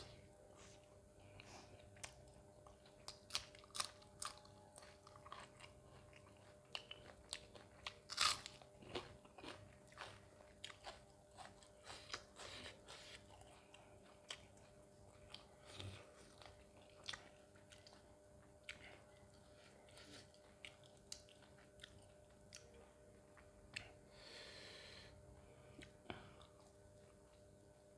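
Close-miked chewing and biting of mutton curry and roti: a quiet run of wet mouth clicks and smacks, with a louder bite about eight seconds in.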